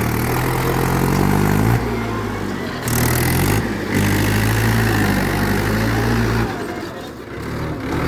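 Tractor diesel engine revving hard in several surges, the pitch rising in each, with brief let-offs between them and an easing off about two-thirds of the way through.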